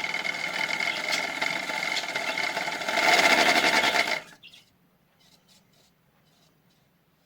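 Small electric motor of a toy washing machine running with a steady whine and a few faint knocks, getting louder about three seconds in, then cutting off suddenly just after four seconds.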